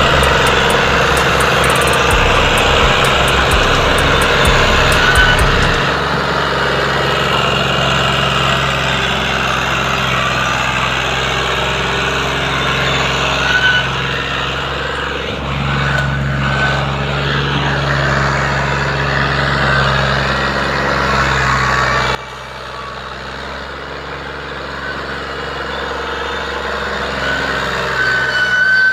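Tractor engine running steadily. About three quarters of the way through, the sound drops abruptly to a quieter engine sound.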